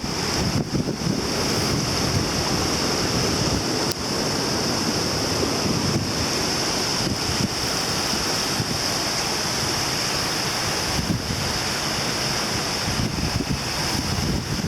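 Steady rush of fast-flowing floodwater, with wind buffeting the microphone in an uneven low rumble.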